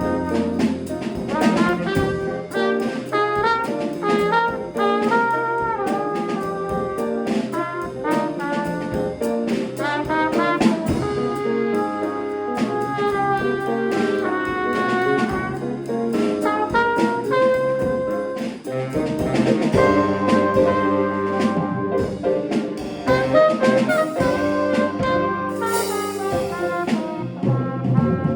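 Small jazz combo of trumpet, alto, tenor and baritone saxophones, piano and drums playing a jazz tune, horn lines moving over a repeating piano bass figure and busy cymbals, recorded on a mobile device.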